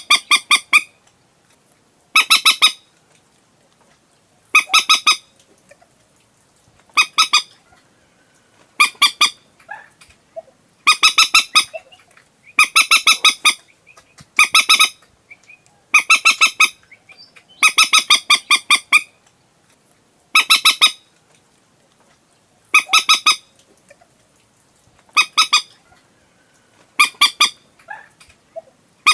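Common moorhen calls played back as a lure recording: short, loud bursts of rapid stuttering notes, repeating about every two seconds.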